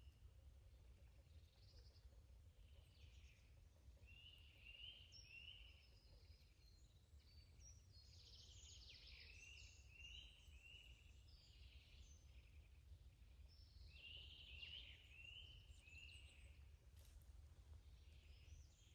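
Faint songbird chorus. One bird repeats a phrase of three short, arched notes over and over, while other birds call and twitter higher up, all over a steady low rumble.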